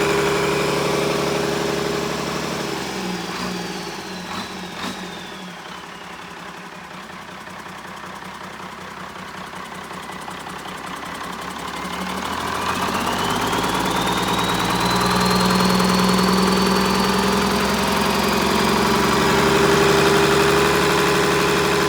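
Diesel engine running, easing off for several seconds and then building speed again, with a high whine that falls in pitch as it slows and rises again as it picks up. A couple of light clicks sound during the slow part.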